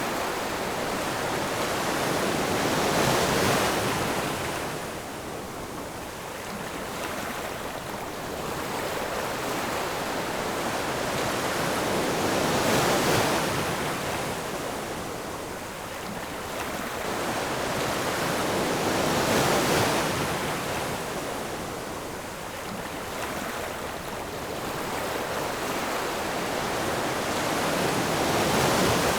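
Ocean surf, waves breaking one after another in slow surges that rise and fade about four times.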